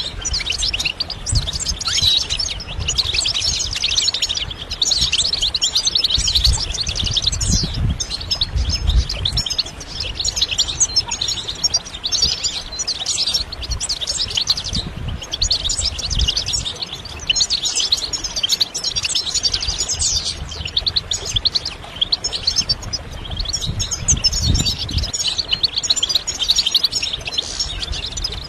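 European goldfinch singing: a long, fast, tinkling twitter of trills and chirps with only brief pauses, over a low rumble at times.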